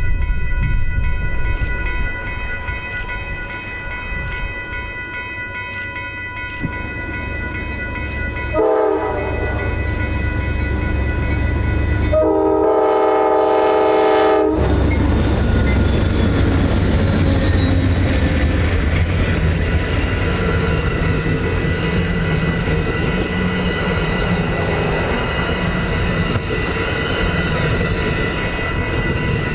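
Diesel locomotive horn sounding a short blast and then a longer one of about two seconds, followed by the steady rumble of the train running past.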